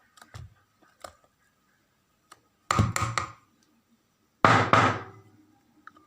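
Kitchen handling noise: a few light knocks, then a cluster of clattering impacts about three seconds in and a louder clatter with a short ring near the end, as containers and utensils are knocked and set down on a hard surface.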